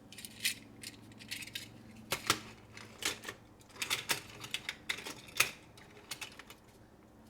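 Small toy cars handled by hand, giving irregular light clicks and clatters, a dozen or more in quick succession.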